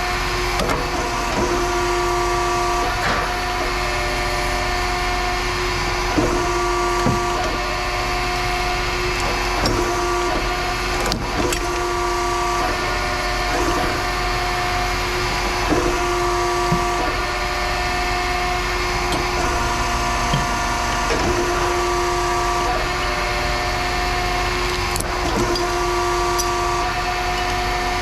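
A machine running with a steady, even drone made of several held tones, with short knocks and clanks of metal scrap being handled scattered through it every second or two.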